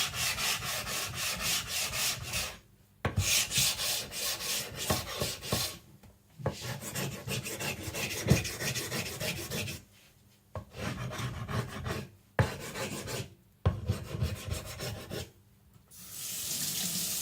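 Rapid back-and-forth rubbing strokes on a wet Naniwa Professional water stone, in several runs of a few seconds each with short pauses between them. About a second before the end, a tap starts running.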